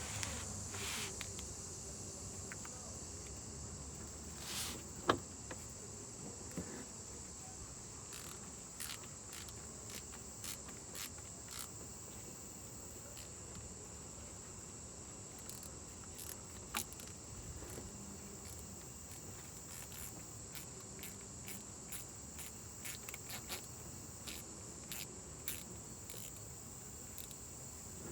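Steady high-pitched insect chirring, with scattered light clicks and taps, the sharpest about five seconds in and again past the middle.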